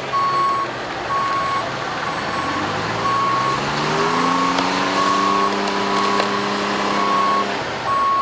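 A truck's reversing alarm beeping steadily about once a second. About two and a half seconds in, an engine revs up, rising in pitch over a couple of seconds, holds, then drops away near the end.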